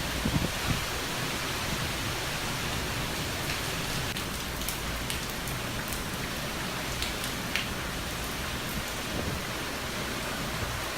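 Steady heavy hurricane rain, with scattered drops ticking sharply now and then. A gust of wind on the microphone dies away in the first moment.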